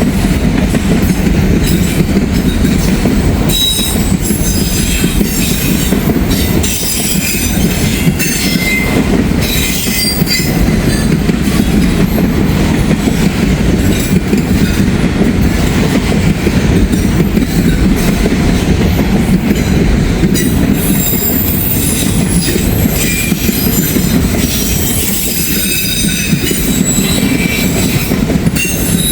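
Freight train cars rolling past close by, the wheels clicking and clacking over rail joints under a steady low rumble, with short high-pitched wheel squeals scattered through.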